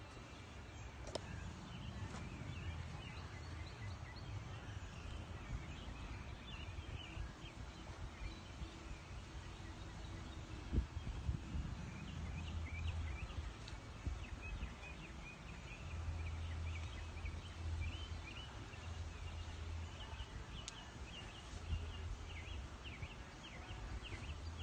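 Outdoor ambience of birds chirping and calling throughout, over a steady low rumble, with a single sharp knock about eleven seconds in.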